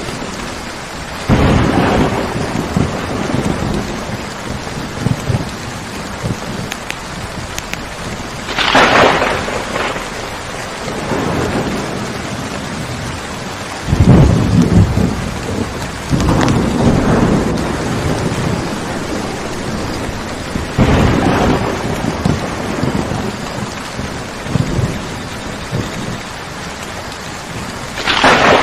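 Steady heavy rain during a thunderstorm, with several rolls of thunder rising over it; the sharpest cracks come about nine seconds in and near the end.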